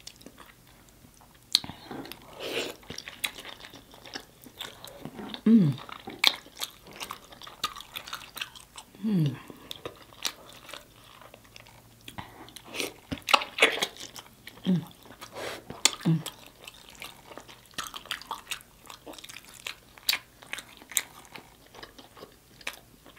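Close-miked chewing and lip-smacking of someone eating saucy rotisserie chicken with their hands: wet mouth clicks and smacks come irregularly throughout. Four short hums that fall in pitch are spread through the middle.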